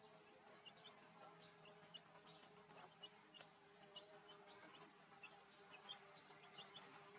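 Faint background of small birds chirping: many short, high notes at irregular intervals, over a steady low buzz like an insect's.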